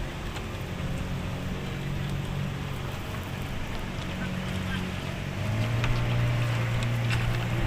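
Engine of a small crossing boat running steadily over a wash of wind and water noise; about five seconds in its note drops and gets louder.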